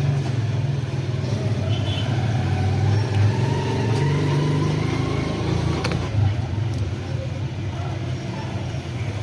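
Steady low engine hum with a short click about six seconds in.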